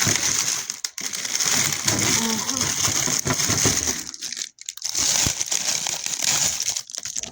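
Packaging crinkling and rustling as a new water heater is unwrapped by hand, in several handfuls with short pauses between.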